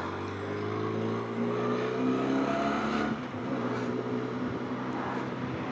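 Motorcycle engine, the Benelli TRK 502X's parallel twin, pulling under acceleration, its pitch rising for about three seconds. There is a short dip in level, then it runs on more steadily over wind and road noise.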